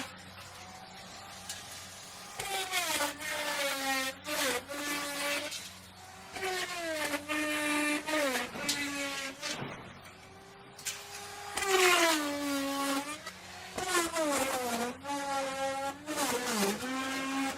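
Electric wood router cutting, its whine dipping in pitch as the bit loads in the wood and rising again, over and over in bursts. There are brief quieter gaps about six and ten seconds in.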